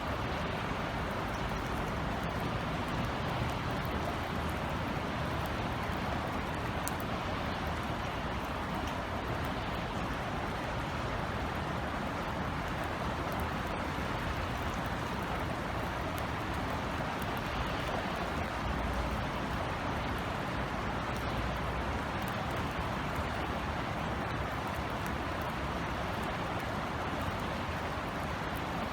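Steady rain falling, an even hiss with scattered drop ticks, over a low rumble of city background.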